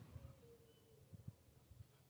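Near silence, with a few faint low knocks and rustles.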